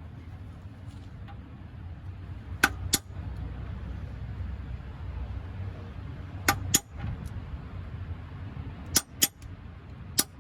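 Hammer tapping a new pilot bearing into the rear of the crankshaft, sharp metal-on-metal strikes coming in quick pairs every three to four seconds.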